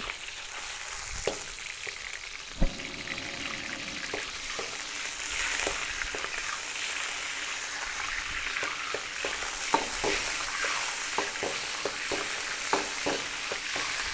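Shrimp and squid sizzling in hot oil in a steel wok while a long-handled metal ladle stirs them, clinking and scraping against the pan. There is one louder knock about two and a half seconds in, and the ladle clicks come more often in the second half.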